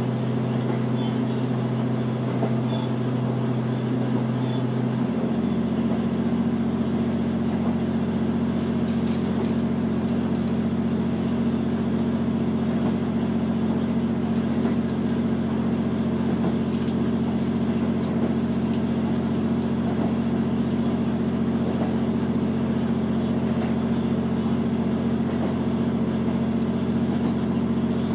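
Running sound of a JR Hokkaido H100 series diesel-electric railcar heard from aboard: a steady hum from the diesel engine and electric drive. A low tone in the hum drops in pitch about five seconds in.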